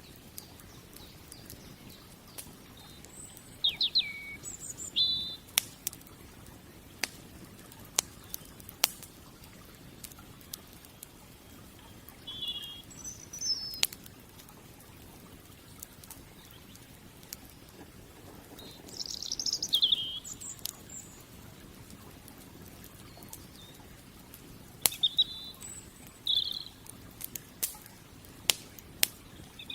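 Wood campfire crackling, with sharp single pops and snaps scattered irregularly over a soft hiss. Songbirds chirp in short bursts several times, the loudest about 4 and 20 seconds in.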